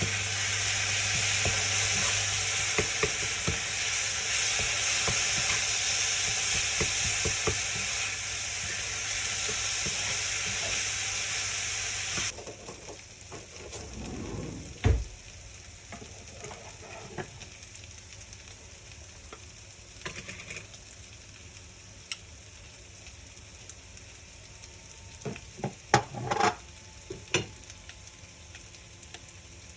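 Food sizzling in a hot frying pan while being stirred, with small clicks through the hiss; the sizzle cuts off suddenly about twelve seconds in. After that there are only a few scattered knocks.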